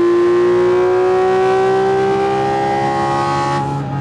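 Porsche 718 Cayman GT4 RS's naturally aspirated 4.0-litre flat-six, with a catless Fi-Exhaust, pulling hard at high revs. The intake howl climbs steadily in pitch, then cuts off sharply near the end as the revs drop.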